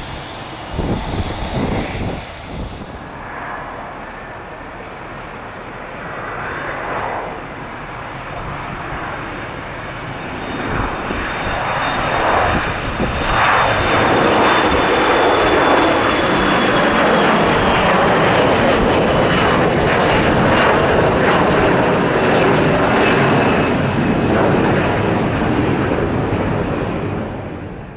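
Embraer E175 airliner's twin turbofan jet engines spooling up: the jet noise builds over a few seconds into a loud steady rush with a thin high whine, typical of a jet at takeoff power. Wind buffets the microphone at first.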